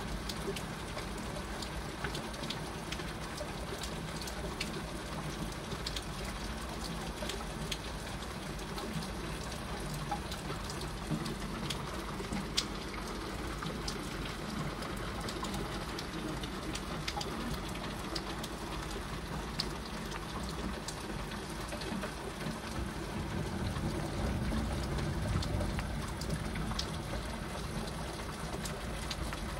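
Heavy rain falling steadily, with scattered sharp taps of single drops. The sound swells a little louder and deeper about three quarters of the way through.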